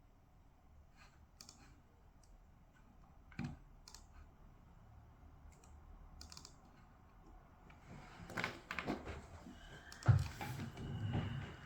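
Computer keyboard typing: scattered key clicks that grow busier after about eight seconds, with a heavier thump near the end.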